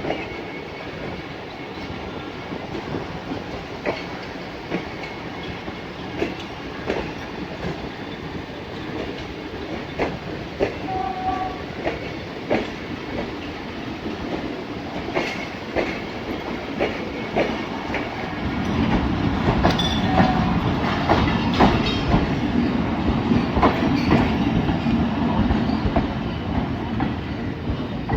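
Passenger train rolling past, its wheels clicking over the rail joints in an uneven clickety-clack over a steady rumble. The rumble grows louder and heavier about two-thirds of the way through.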